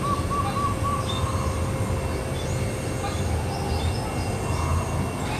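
Zebra dove cooing: a quick trill of short arched notes, about four a second, that ends about a second in. A steady low rumble runs underneath, and small birds chirp faintly.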